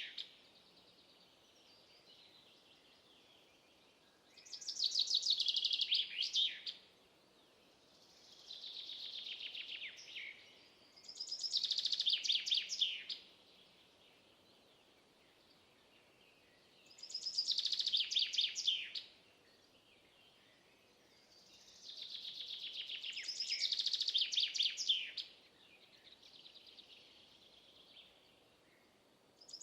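Songbirds singing: bright, rapid trilled phrases about two seconds long, repeating every few seconds, with some phrases softer than others, over a faint steady background hiss.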